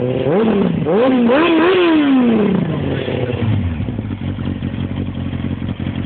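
Kawasaki ZX-9R's inline-four engine through an IXIL exhaust with the dB killer removed, revved with several quick throttle blips in the first two seconds, then the revs falling back to a steady idle.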